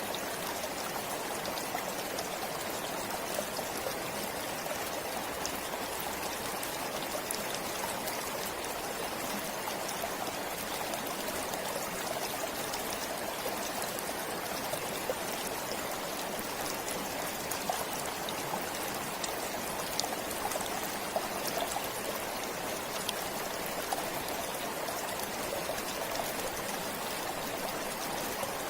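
Forest stream flowing steadily over stones, an even rush of water with small trickles and splashes.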